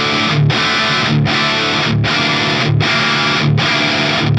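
Distorted electric guitar through a Soldano SLO-100 clone amplifier on its overdrive channel, gain at halfway and unboosted, playing chords restruck in a steady rhythm about every three-quarters of a second.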